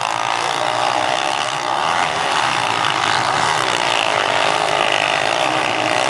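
Motocross motorcycle engines in the 230 cc class running loud and steady as the bikes race.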